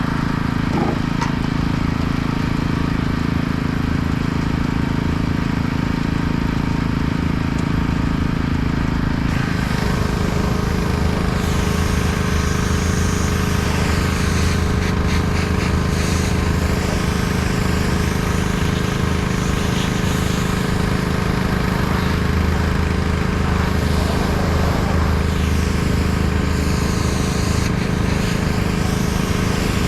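Pressure washer's engine running steadily. About nine seconds in its pitch drops a little and the hiss of the water jet joins, shifting as the spray moves.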